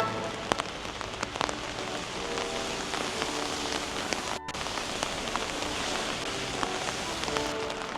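Steady rain falling, with many separate drops tapping sharply on an umbrella overhead. Faint held tones sound now and then in the background.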